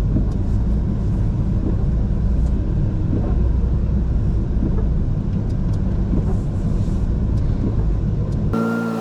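Steady low road and engine rumble of a rollback tow truck driving on the highway, heard from inside the cab, with faint ticks. Near the end the sound cuts abruptly to a steady multi-pitched hum with a swelling hiss.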